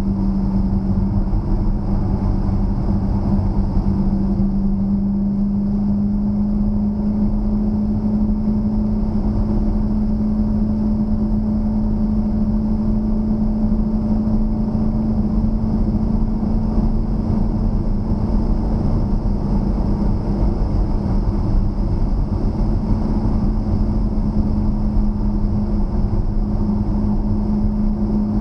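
2013 Dodge Challenger SRT8's 6.4-litre HEMI V8 running at a steady cruise on the road: one droning note that rises slightly about a second in and then holds.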